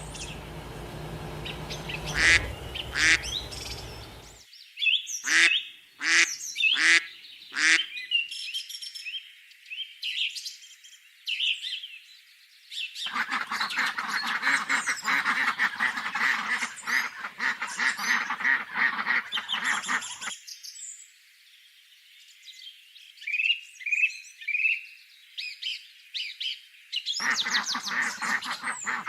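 Ducks quacking in several separate recordings: a few single quacks about five seconds in, then a long run of dense flock quacking, then a few short calls and more quacking near the end.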